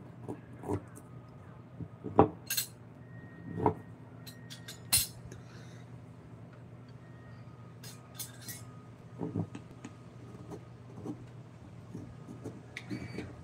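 Irregular clinks and taps of hand tools being picked up and set down on a workbench, a few ringing briefly, over a steady low hum.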